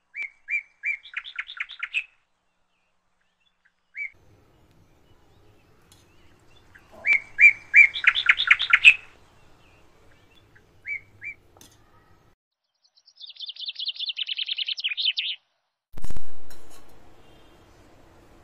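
A bird singing in three bursts of quick repeated chirps that speed up into a trill. Near the end, a single loud knock that fades away over about a second.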